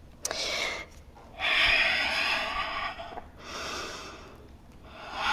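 A person breathing slowly and audibly in and out during a held yoga pose, several long hissing breaths with short pauses between them.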